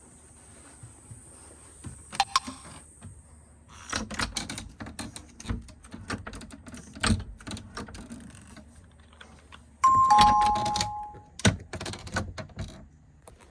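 Clicks and knocks of objects being handled, with a two-tone electronic ding-dong chime, high then lower, about ten seconds in.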